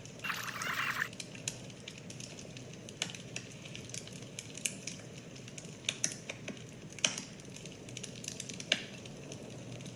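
Fire crackling: irregular sharp pops over a low rumble, with a short hiss about half a second in.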